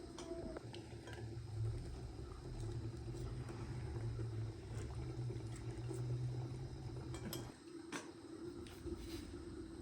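Kitchen work: a few light clinks of dishes and utensils over a steady low hum that cuts off about seven and a half seconds in.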